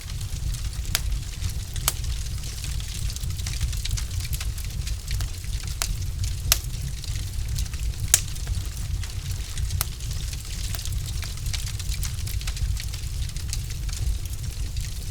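Wood fire in a fireplace crackling, with irregular sharp pops from the burning logs over a low steady rumble; two pops about halfway through are louder than the rest.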